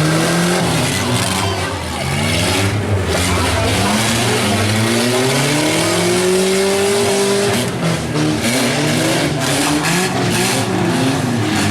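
Several compact pickup and van engines revving at once, their pitch rising and falling over a steady haze of noise.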